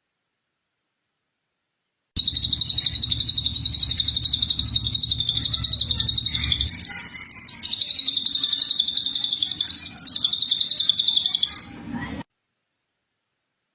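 Recorded songbird giving one long, fast trill of evenly repeated high notes that wavers slightly in pitch. It starts about two seconds in and cuts off near the end, with dead silence before and after.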